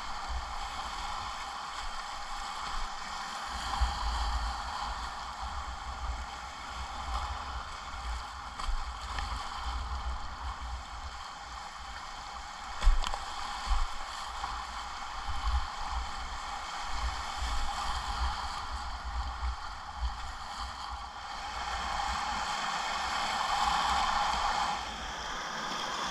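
River whitewater rushing steadily, with irregular low thuds on the microphone; the rush swells a little near the end.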